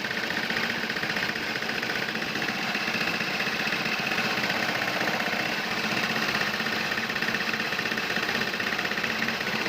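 Excavator diesel engine running steadily with an even, rapid beat.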